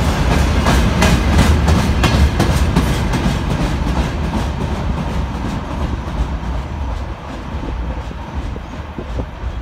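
Wheels of a freight train's open gondola wagons clattering over the rails, with a quick run of clicks as the last cars pass close. The sound then fades as the train rolls away.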